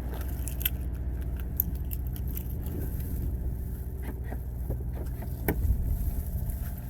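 Steady low rumble of a car running, as heard inside the cabin, with scattered small clicks and rattles and one sharper click about five and a half seconds in.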